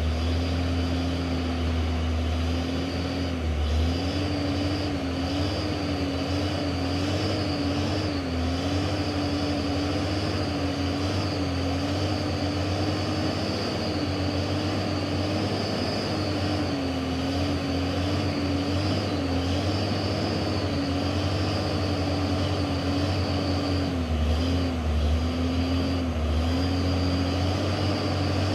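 Heavy truck's diesel engine running steadily under load, with its pitch wavering slightly up and down and a faint high whine above it.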